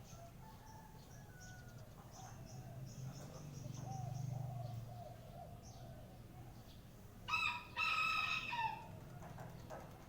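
A rooster crowing once about seven seconds in, a loud call lasting about a second and a half that ends in a falling note. Small birds chirp faintly before it, over a low hum that swells around four seconds in.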